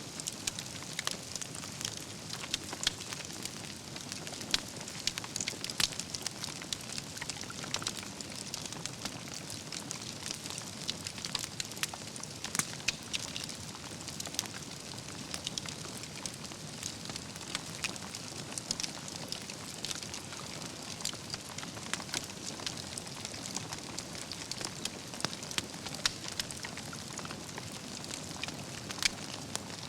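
Wood fire burning steadily with constant crackling and frequent sharp pops from the burning logs over a soft hiss.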